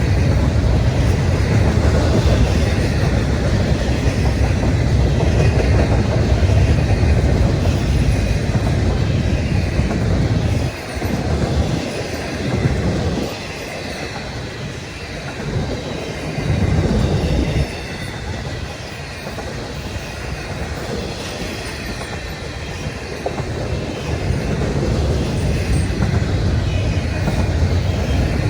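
Train cars rolling past on the rails, a steady heavy noise of wheels on track. It drops for a stretch in the middle and grows louder again near the end.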